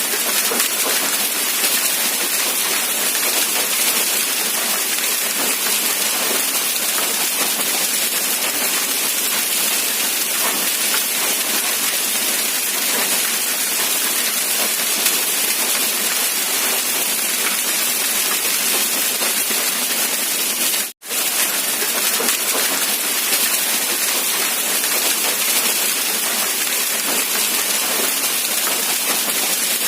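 Steady rain, a dense even hiss of many drops with little low end. It cuts out to silence for an instant about two-thirds of the way through, then resumes unchanged.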